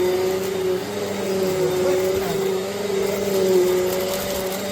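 Upright vacuum cleaner running: a steady motor whine over a rush of airflow, its pitch wavering slightly.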